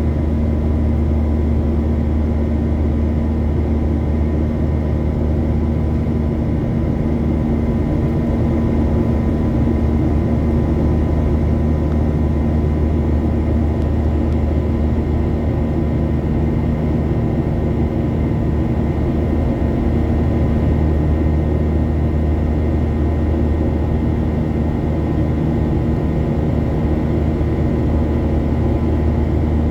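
Steady cabin noise of a Boeing 737-800 climbing out: its CFM56-7B jet engines at climb power, a constant low drone with a few steady hum tones over the rush of air past the fuselage, heard from inside the cabin.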